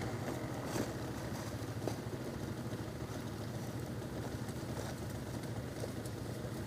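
Engine idling steadily at a low, even pitch, with two faint knocks about one and two seconds in.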